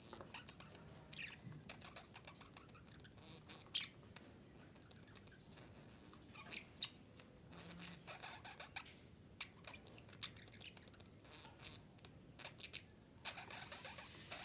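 Female budgerigar making faint, scattered short chirps and clicks, with pauses between them. A steady hiss comes in near the end.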